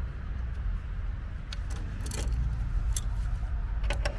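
Scattered sharp metallic clicks and clinks of tools and sheet metal as a furnace blower housing is worked open, over a steady low rumble.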